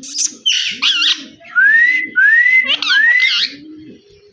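Indian ringneck parrot giving a couple of harsh screeches, then three loud rising whistles in a row. A low cooing repeats about twice a second underneath.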